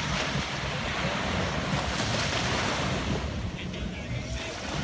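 Ocean surf washing onto a shore: a broad rush of water that swells over the first three seconds and then ebbs, with wind rumbling on the microphone.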